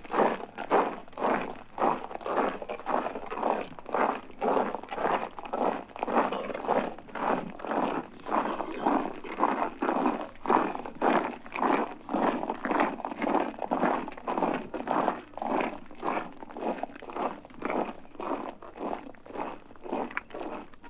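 Footsteps crunching in an even, steady rhythm of about two steps a second.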